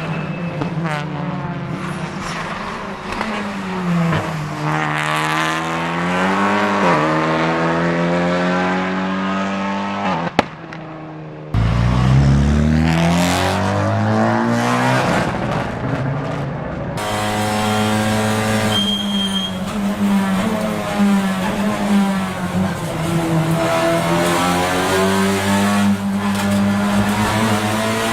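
Honda Civic Type R TCR touring car at racing speed: its turbocharged engine repeatedly revs up and drops through the gears of its straight-cut Sadev sequential dog box. The sound changes abruptly about ten, eleven and seventeen seconds in.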